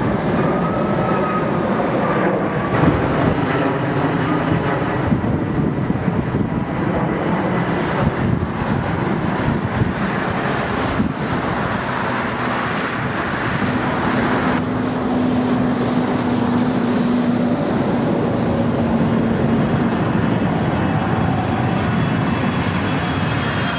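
Jet airliner engines running loud and steady as an aircraft passes, with an engine tone that drops slightly in pitch partway through. Gusts of strong wind buffet the microphone.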